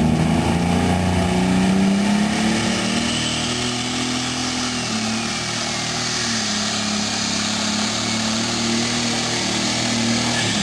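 Tractor engine running hard under full load as it drags a pulling sled down the track. Its note holds steady, sagging slightly in pitch about five seconds in.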